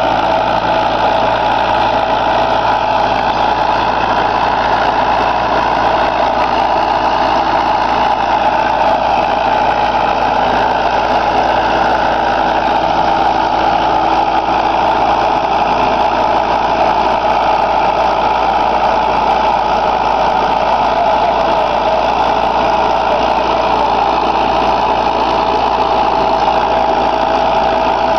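Preet tractor's diesel engine running steadily at an even pace while pulling a plough through the field.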